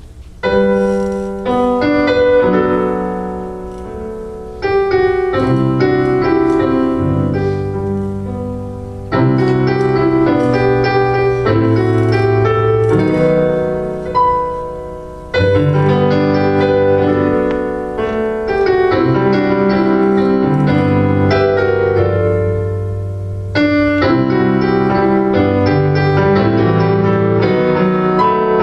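Solo piano playing slow, sustained chords in a worship-style interlude, each chord struck and left to ring and fade before the next.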